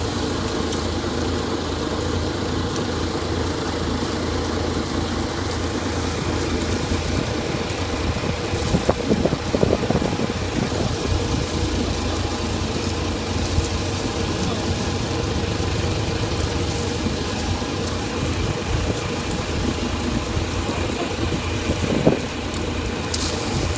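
Fishing boat's engine running steadily at low speed, an even hum, with a few brief louder knocks about nine and twenty-two seconds in.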